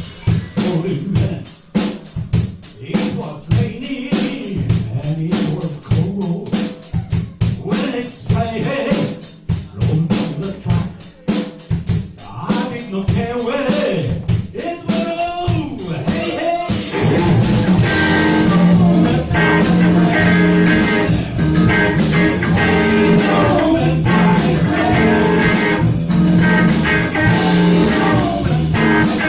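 Blues band playing live: a drum kit beat under electric guitar in an instrumental stretch. The sound grows fuller and steadier about halfway through.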